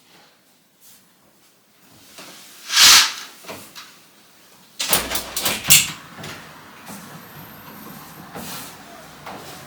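Household handling sounds: a loud sliding whoosh about three seconds in, then a quick run of knocks and clatters, followed by a low steady hum.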